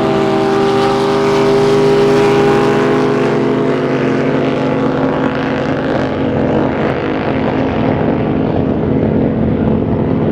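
Drag boat's racing engine running hard through a pass, a loud steady high engine note. From about four seconds in, the sharpest top end dulls while the note keeps going.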